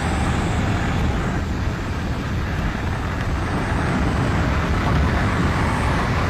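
Steady rushing wind noise over a skydiver's microphone during free fall.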